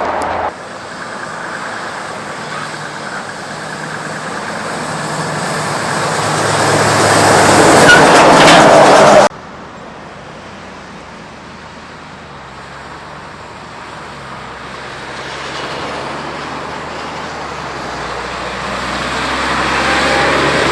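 Mack heavy trucks on the open road: diesel engine and tyre noise grows louder as one truck approaches and passes close, then cuts off abruptly about nine seconds in. A quieter truck follows, growing steadily louder toward the end.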